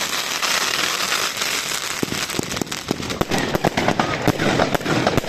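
Fireworks going off: a dense crackle over the first couple of seconds, then a rapid string of sharp bangs and pops.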